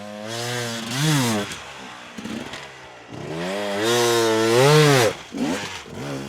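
250 cc dirt bike engine revving: a quick blip about a second in, then a longer rev that climbs, holds and drops off sharply about five seconds in, followed by another short blip.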